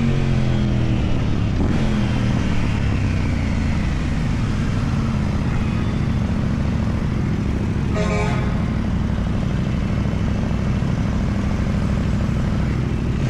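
Motorcycle engine running on the road, its pitch falling over the first couple of seconds, then holding steady. A short vehicle horn blast about eight seconds in.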